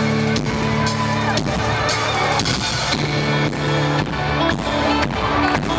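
Folk-rock band playing live, an instrumental passage of sustained chords over a steady drum beat of about two hits a second, recorded from the audience with thin bass.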